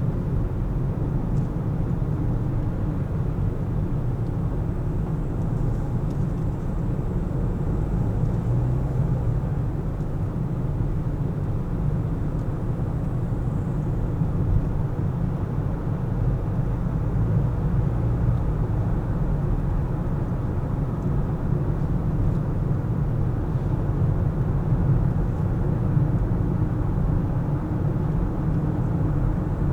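Car driving at a steady pace: an even, low rumble of road and engine noise that does not change.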